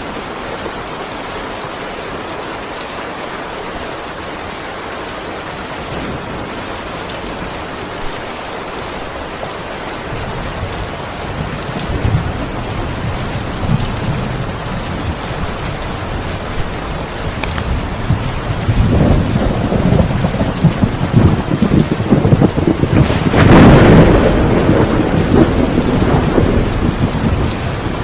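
Heavy rain falling steadily. Thunder rumbles in about a third of the way through, growing into a long, loud roll that peaks near the end.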